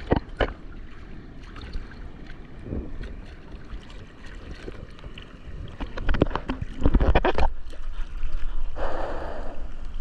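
Seawater splashing and sloshing right at a waterproof action camera's microphone, with a louder run of splashes about seven seconds in.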